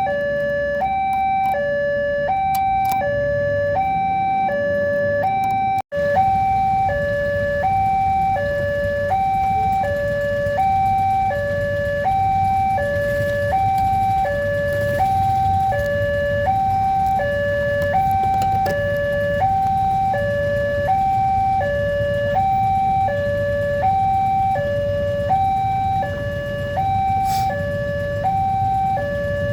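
Railway level-crossing warning alarm sounding, a steady two-tone electronic signal alternating evenly between a lower and a higher tone, over a low rumble of idling vehicle engines. The sound cuts out for an instant about six seconds in.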